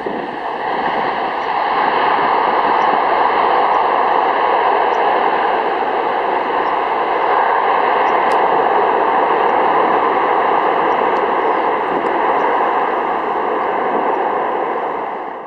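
Steady, loud jet engine noise from a four-engined Airbus A340-600 in flight.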